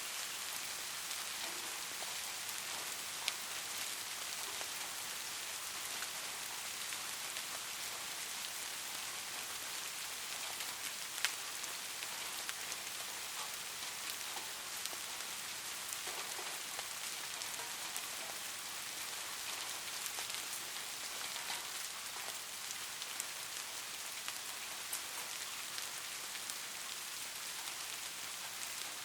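Steady rain falling, with individual drops ticking sharply here and there; two louder drop hits come about three seconds in and about eleven seconds in.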